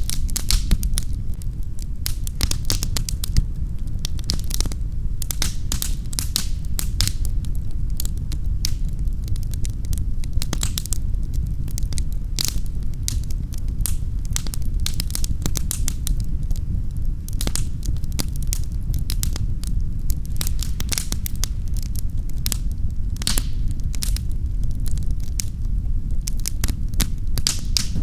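Wood fire burning in a fireplace: frequent sharp crackles and pops, irregular and dense, over a steady low rumble of the flames.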